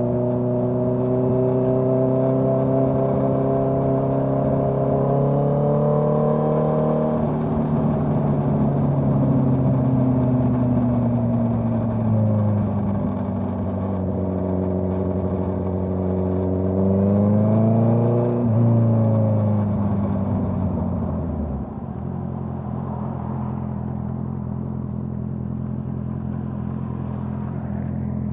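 Honda CBR650R's inline-four through a Dominator GP full-system exhaust. Its pitch climbs slowly, drops suddenly about seven seconds in and falls away. It rises again briefly, drops once more, then settles about two thirds of the way through into a steady low idle.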